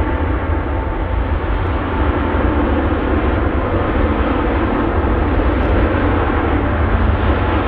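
Jet airliner engines giving a loud, steady noise that swells slightly about two seconds in.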